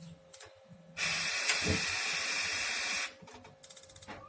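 Compressed air hissing through a Fresh gas water heater for about two seconds, used in place of water pressure to trigger it. The air cuts off, and near the end the heater's spark igniter ticks rapidly for a moment.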